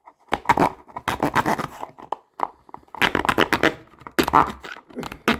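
Irregular run of sharp clicks, cracks and scrapes as a hand tool cuts and scrapes at a tough, layered hard-plastic case.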